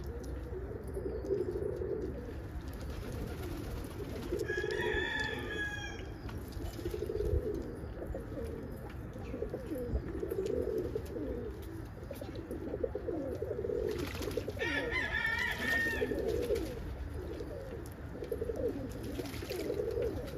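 Domestic pigeons cooing over and over in low, rolling phrases. Twice, about five and fifteen seconds in, a brief higher-pitched call from another bird rises above them.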